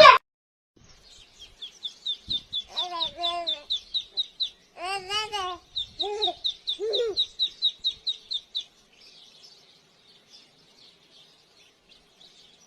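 A bird chirping fast and repeatedly, about four or five short high chirps a second, with a few lower, louder calls mixed in; the chirping stops about three-quarters of the way through.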